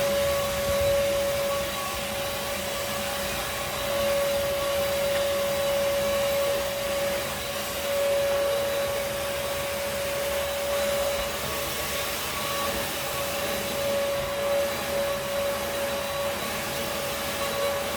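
Vacuum cleaner running steadily: a rushing air noise with a steady motor whine, its loudness swelling and dipping slightly as it works.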